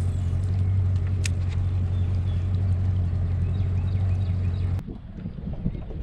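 Boat motor running with a steady low hum that cuts off suddenly near the end, leaving a fainter rough noise.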